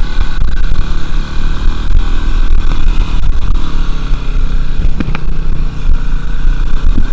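Dirt bike engine running under way, the pitch shifting with the throttle, with heavy low rumble and buffeting over it.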